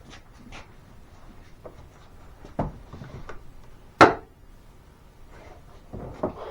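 A few scattered knocks and clicks, with one sharp knock about two and a half seconds in and the loudest about four seconds in.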